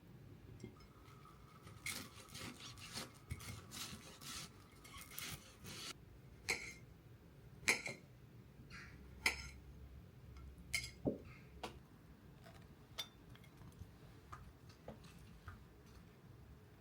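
Dishes and utensils being handled: a few seconds of scraping and rubbing, then scattered separate clinks and taps.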